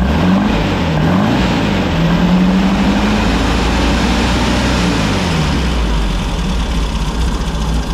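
Air-cooled flat-four engine of a 1964 VW Beetle running and being revved: the pitch rises twice, holds at a raised speed, then falls back to a steady idle about five seconds in. It is running with the spring removed from its front oil pressure relief valve, as a test of whether that lowers the too-high oil pressure.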